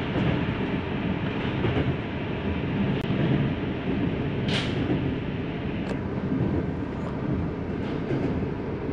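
Steady rumble of a passenger train running along the line, heard from inside the carriage, with a brief hiss about four and a half seconds in.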